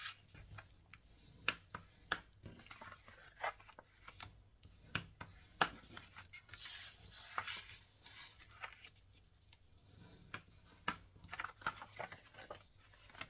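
Cardstock being handled, folded and creased: paper rustling with scattered sharp crackles and taps throughout.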